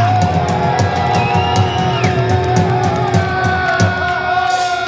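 Live rock band playing, with long held notes over drum and cymbal hits.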